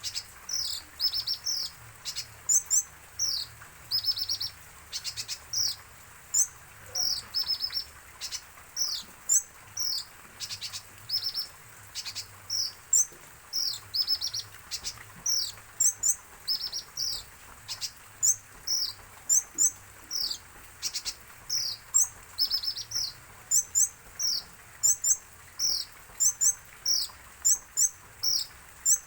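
Kolibri ninja (a sunbird) singing busily: a continuous chatter of high, quick, downward-sliding chirps in short runs, one after another.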